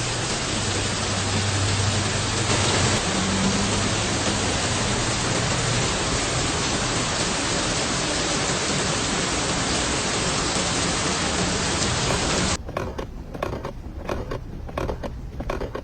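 Heavy rain: a dense, steady hiss that cuts off suddenly about thirteen seconds in, giving way to a quieter stretch with scattered ticks and taps.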